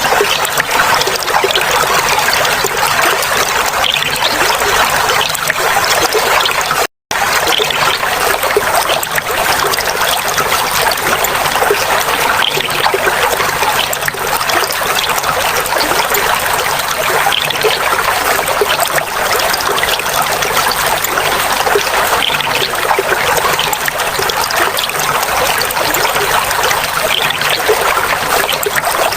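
Clear water flowing and trickling in a steady babble, with a brief moment of dead silence about seven seconds in.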